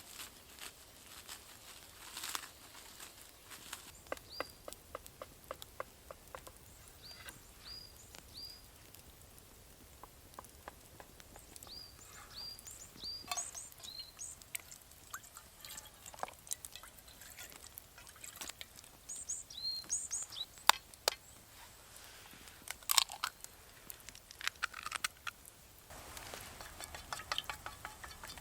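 Scattered light clicks and knocks of camp gear being handled, with short high chirps of a small bird coming in twos and threes, mostly in the middle stretch.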